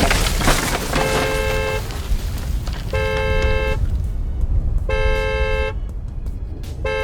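Car alarm sounding the car's two-note horn in repeated blasts, each just under a second long and about two seconds apart, four times. A loud rushing noise fades out in the first second or so.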